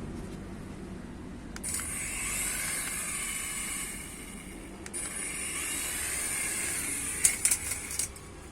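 A small toy helicopter's motor and rotor whirring with a high hiss in two spells of about three seconds each, split by a click, with a cluster of sharp clicks near the end.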